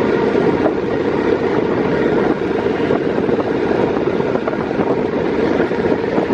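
KiHa 48 diesel railcar's engine running steadily with the train under way, heard from inside the car, with wind rushing in through an open window.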